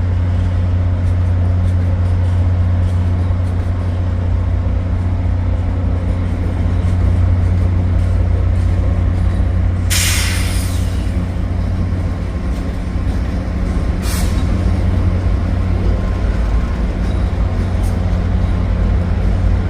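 Amtrak Downeaster diesel locomotive running with a steady low drone, with a loud hiss of air from the train's air brakes lasting about a second about halfway through and a shorter one a few seconds later.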